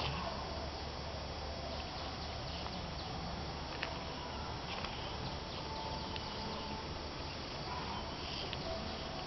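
Steady outdoor ambience with insects and animal sounds, with a few faint ticks.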